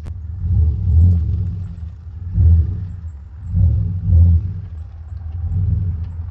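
An engine running at low revs, a deep rumble that swells and eases several times, every second or two.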